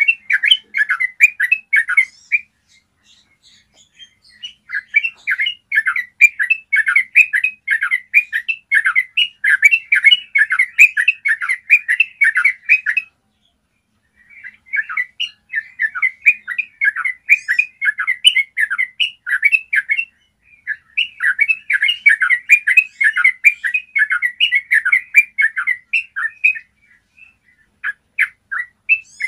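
Yellow-vented bulbul singing long runs of rapid, clear notes, each run lasting several seconds with short pauses between.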